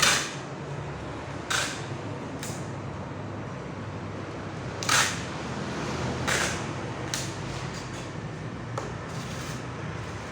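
Wooden packing crate being nailed together: about eight sharp, irregularly spaced knocks on the wood, over a steady low hum.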